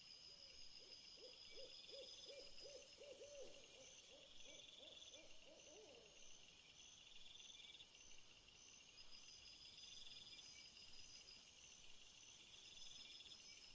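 Crickets or similar night insects chirping steadily in high, pulsing trills. Over them, in the first half, comes a rapid owl-like series of about fifteen low hoots, roughly three a second.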